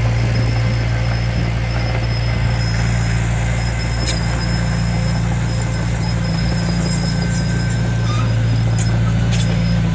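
Heavy construction machine's diesel engine running steadily under load, with a few sharp metallic knocks about four seconds in and near the end.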